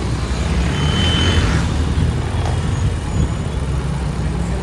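Motorbike engine running steadily under road traffic noise. A short rush of hiss with a brief high squeal about a second in.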